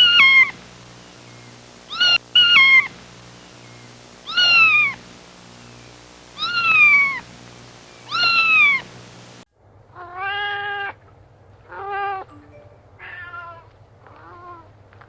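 Kittens meowing: a series of loud, high mews that fall in pitch, about one every two seconds. About nine and a half seconds in, the sound changes abruptly to a lower-pitched cat meowing several times in shorter calls.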